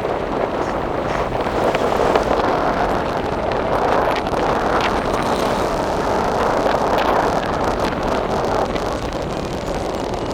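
Steady rush of wind buffeting the microphone, mixed with the running noise of a moving vehicle.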